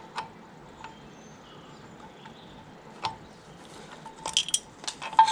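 Sharp metallic clicks and clinks of pliers and a small split pin against the brake latch linkage, a few single clicks and then a quick cluster near the end, in a fiddly attempt to fit the pin that does not succeed.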